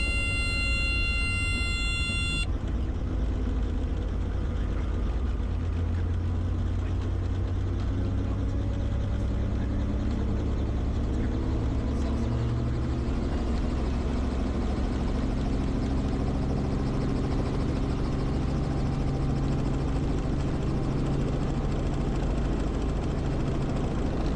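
Training helicopter running steadily, a low drone of engine and rotor. For the first couple of seconds a steady high electronic tone sounds over it, then cuts off.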